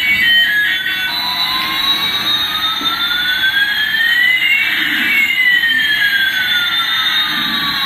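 Electronic jet-engine sound effect from a toy's sound chip: one tone rising while another falls, crossing about four seconds in, over a steady hiss. It follows the tail of a beeping toy tune in the first second.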